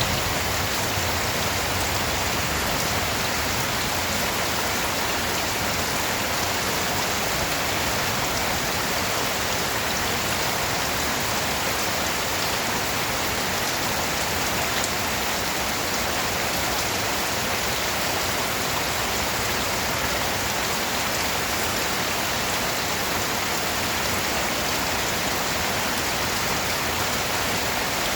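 Steady rain falling on surfaces: an even, unbroken hiss of rainfall.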